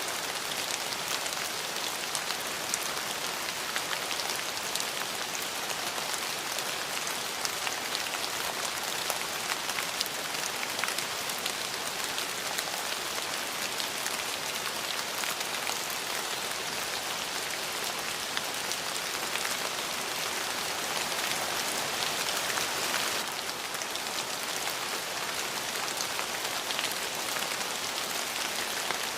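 Steady rain, a dense hiss with many distinct drop ticks throughout. It swells slightly about three-quarters of the way in, then eases back.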